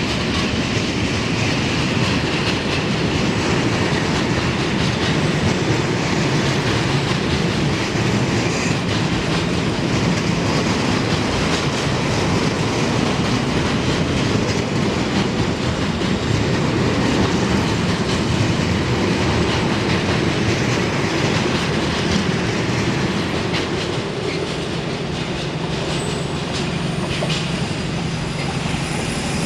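A train running along the track, with a loud, steady rumble of wheels on rail that eases slightly near the end.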